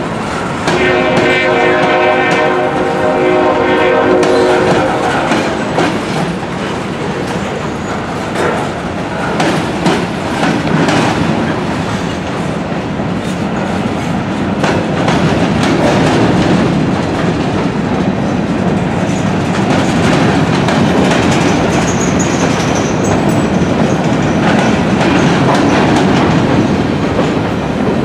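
Freight cars (covered hoppers and a tank car) rolling past, their wheels clicking over the rail joints with a steady rumble. A locomotive's multi-note horn sounds one chord for about four seconds, starting about a second in.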